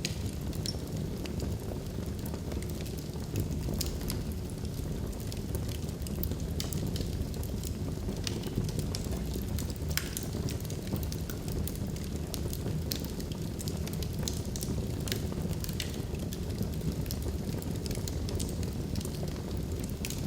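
Wood logs burning in a fireplace: a steady low rumble of flames with frequent sharp crackles and pops scattered irregularly throughout.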